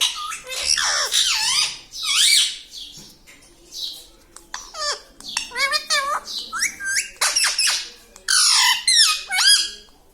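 Pet parrot squawking and chattering: a string of shrill calls with quick up-and-down pitch warbles, broken by short pauses.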